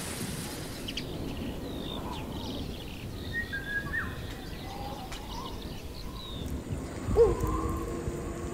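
Birds calling with short high chirps and whistles over a low background hiss. About seven seconds in, a lower, drawn-out call starts and carries on.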